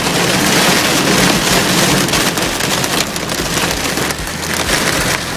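Hard rain on a car driving through a storm: a steady hiss, with the car's low road rumble underneath.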